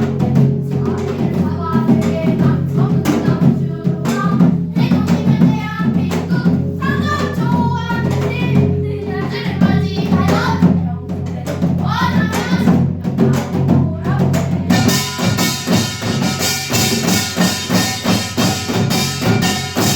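Samulnori percussion ensemble playing: janggu and buk drums beaten in a continuous driving rhythm over the ringing jing gong, with the small kkwaenggwari gong clanging on top. About 15 seconds in, the playing turns denser and brighter, with the metal gongs much louder.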